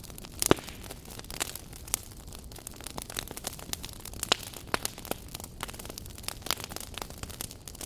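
Wood fire burning in a fireplace, crackling with irregular sharp pops over a low steady hiss; the loudest pop comes about half a second in.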